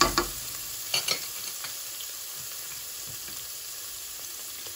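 Ginger-garlic paste and a green chilli sizzling in hot oil in a non-stick pot. A spatula clicks and scrapes against the pot a few times at the start and once more about a second in, then only the steady sizzle goes on.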